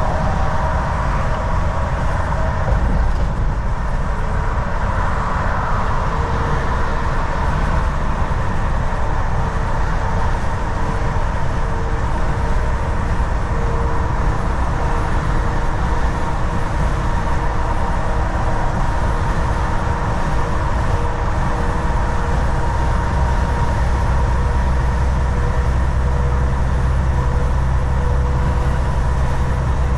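Volvo VNL 760 semi truck cruising on the highway: a steady low engine and road rumble with a faint steady whine above it.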